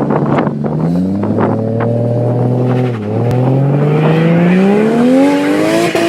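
Car engine accelerating hard. Its pitch climbs, drops sharply about three seconds in at a gear change, then climbs again. Sharp cracks sound during the first two seconds.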